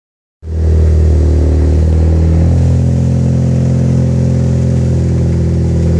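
Turbocharged four-cylinder of a 2013 Ford ST idling through an Injen aftermarket exhaust with the stock downpipe: a steady exhaust note that starts about half a second in and shifts slightly in tone about two and a half seconds in.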